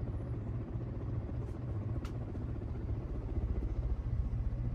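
Alaska ceiling fan running close to the microphone: a steady low rumble with a fast flutter from the spinning blades, growing a little louder near the end. A faint click about two seconds in. The fan is in good mechanical order, running fine apart from a tiny wobble.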